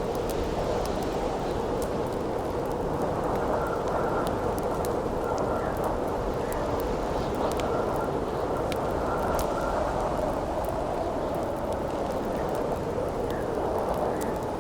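Steady wind howling, with the sparse sharp crackles and pops of a wood campfire scattered through it.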